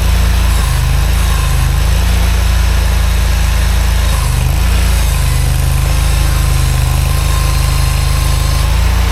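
Mini skid steer's engine running steadily, its low drone shifting a little about halfway through.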